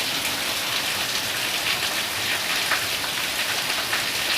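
Steady rain falling and spattering on surfaces.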